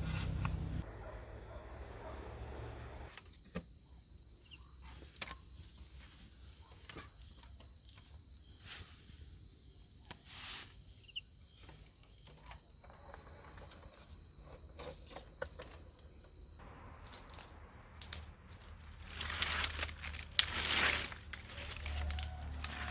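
Scattered light clicks and rustling, with a louder spell of rustling a few seconds before the end, over a steady high-pitched whine that stops about two-thirds of the way through.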